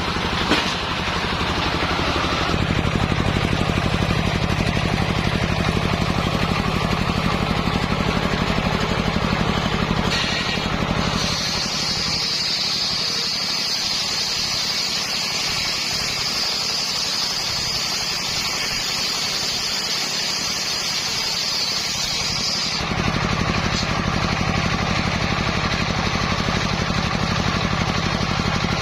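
Engine-driven circular saw running with a steady beat. From about eleven seconds in, for about twelve seconds, a high steady whine comes in and the deep engine sound fades, as the blade cuts through hard coconut-palm wood.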